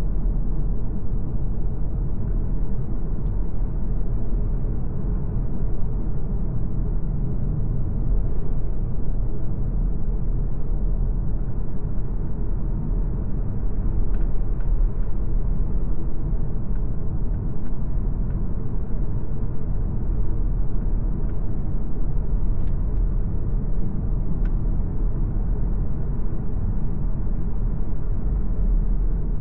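MG ZS Hybrid+ compact SUV being driven at a steady pace: a constant low rumble of tyres and drivetrain, with a few faint ticks past the middle.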